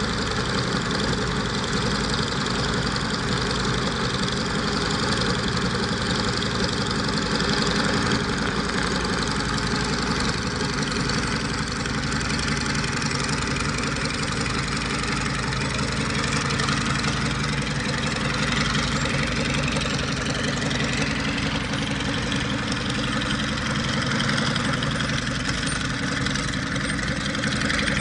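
Alvis Leonides radial piston engine of a Scottish Aviation Twin Pioneer running steadily during a ground engine run.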